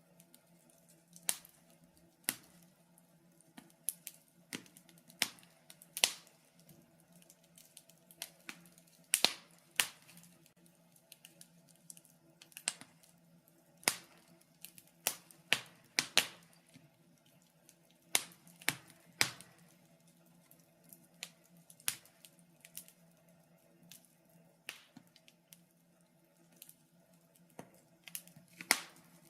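Wood fire in a fireplace crackling, with sharp irregular pops and snaps, roughly one to three a second and some much louder than others, over a faint steady hum.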